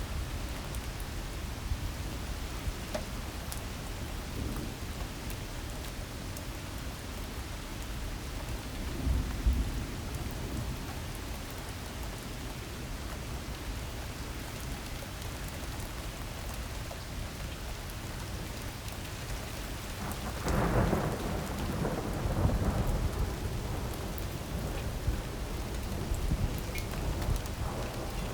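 Heavy rain pouring steadily in a storm, with low rumbling underneath. A low swell comes about nine seconds in, and a louder surge of rain and rumble about twenty seconds in.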